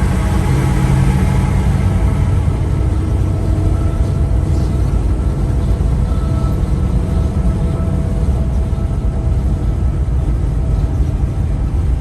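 Semi-truck's diesel engine running with a steady low rumble, its engine note strongest in the first couple of seconds.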